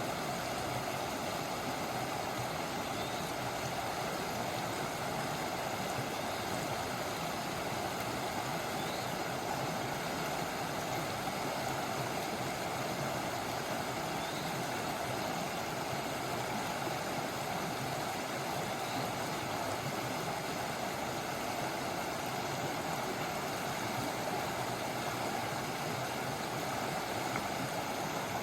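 River water flowing: a steady, unchanging rush.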